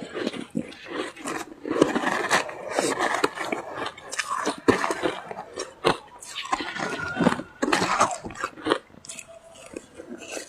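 Close-up chewing and crunching of ice in the mouth: a run of sharp cracks and crackly grinding, with short pauses between bites.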